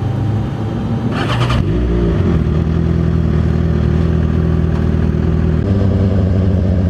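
Motorcycle engine running steadily while under way. There is a brief noisy burst about a second in, and the engine note steps up near the end as it pulls harder.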